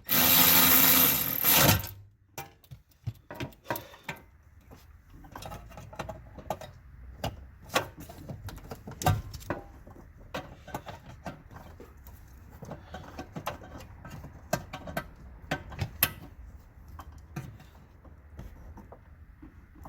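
A handheld power tool runs briefly, driving fasteners, and stops about two seconds in; then scattered clicks and taps of tools and metal parts being handled.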